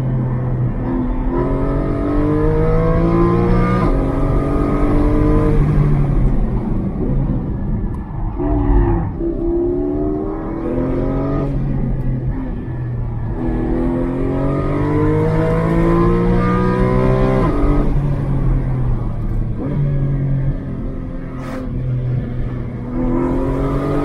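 Porsche Cayman GT4's naturally aspirated flat-six, heard from inside the cabin, accelerating hard several times with the engine note climbing, then dropping as the driver lifts or shifts, over tyre and road noise on an uphill winding road.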